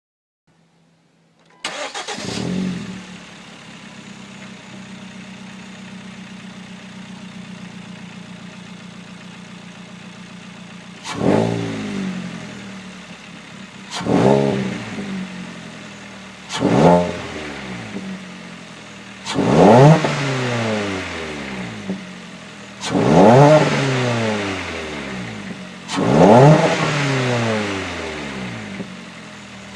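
Kia Forte's 2.4-litre four-cylinder engine starting about two seconds in and settling to a steady idle. From about eleven seconds in it is revved in six quick throttle blips, each falling back to idle, the later ones held a little longer.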